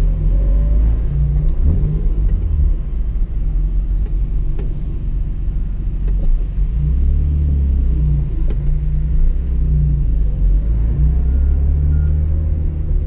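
Toyota Supra's straight-six engine and road noise heard from inside the cabin at a steady cruise: a low rumble and drone, with a few faint clicks.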